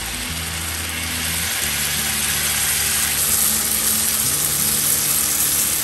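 Marinated chicken pieces frying in melted butter in a pan, a steady sizzle as they are stirred in. Soft background music with held low notes plays under it.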